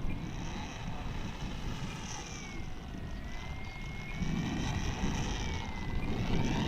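Electric brushless motor and propeller of an E-flite Air Tractor 1.5m RC airplane whining in flight, the pitch sliding down and up with throttle and passes. Wind buffets the microphone, more heavily in the second half.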